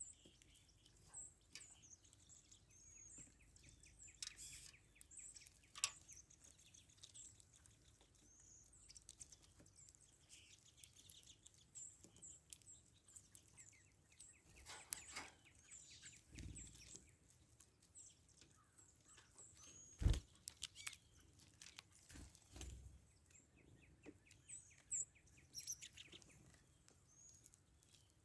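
Small songbirds chirping: many short, high, faint calls scattered throughout. A few dull thumps break in, the loudest about twenty seconds in.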